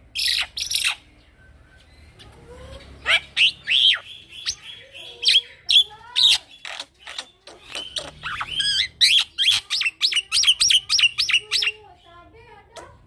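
Young male black-winged myna (jalak putih) singing loudly: sharp whistles and chattering notes, building into a fast run of short repeated notes before breaking off near the end.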